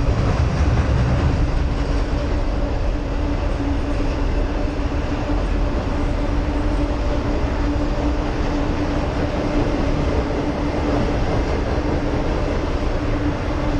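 Freight train rolling across a steel truss bridge: a steady, continuous rumble with a sustained hum.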